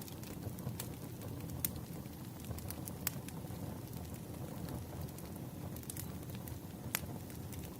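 Burning firewood crackling: scattered sharp pops over a steady low rumble from the fire, with the clearest pops about three seconds in and near the end.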